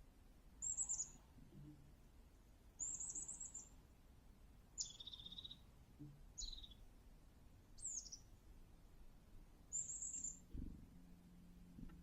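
Small birds calling: six short, high-pitched calls spaced a second or two apart, several falling in pitch.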